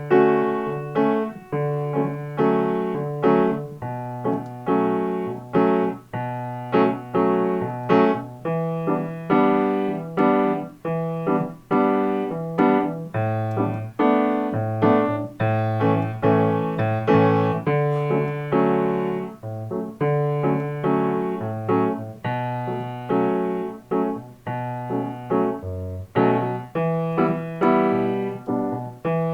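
Piano playing a four-chord progression in a steady rhythm: full chords with added flavor notes (ninths, sevenths, a sus chord resolving to major) are struck again and again over changing bass notes, each chord dying away between strikes.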